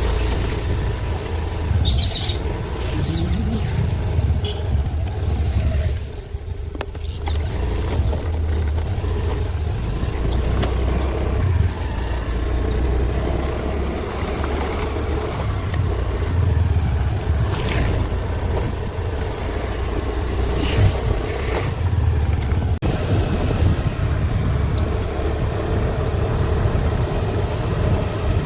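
Steady low rumble of a moving vehicle's engine and road noise, with wind buffeting the microphone. A brief high-pitched tone sounds about six and a half seconds in.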